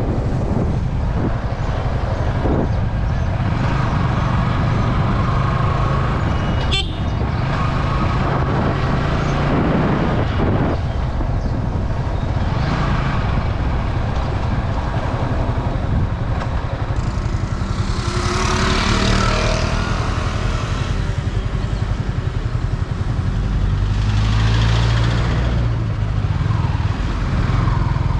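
Yamaha R15 V3 motorcycle's single-cylinder engine running steadily under way, with road and wind noise on the helmet- or bike-mounted camera, and passing vehicles swelling past twice near the end.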